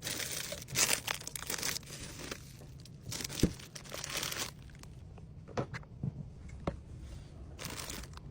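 Plastic packaging crinkling and rustling as it is handled, in three bouts, with a few light clicks and taps in between.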